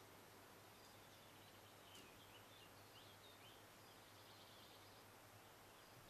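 Near silence with faint, high bird chirps and twittering through the middle, over a faint steady low hum.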